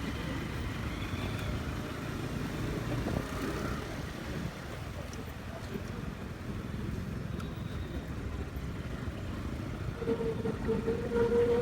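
Motorcycle running along the road, a steady low rumble mixed with wind noise on an unprotected microphone. About ten seconds in, a horn sounds one steady note for roughly two seconds.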